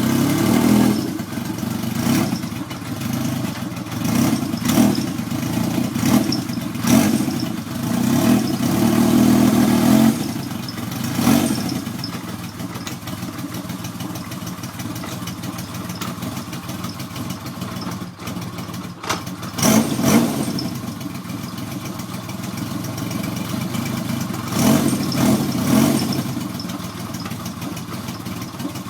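1977 Yamaha XS750 three-cylinder engine running through a Piper exhaust, blipped repeatedly in the first ten seconds or so, then idling steadily with two more short revs about twenty and twenty-five seconds in.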